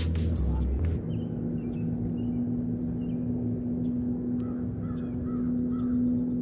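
Several birds calling faintly over a steady low hum. Background music cuts off about a second in.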